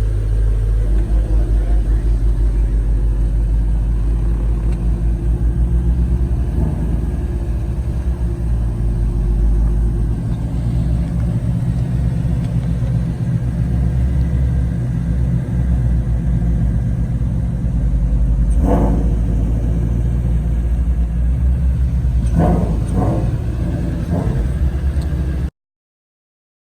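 A car engine running with a deep, steady rumble, swelling a little at times, then cut off abruptly shortly before the end.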